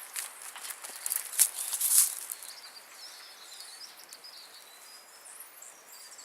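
Outdoor nature ambience of small birds chirping on and off, with a brief cluster of sharp crackles in the first couple of seconds.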